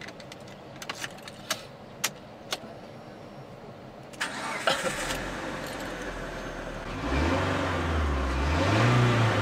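Car key clicking and rattling into the ignition. About four seconds in, the starter cranks and the engine catches. Near the end the engine is revved, its pitch rising and falling twice.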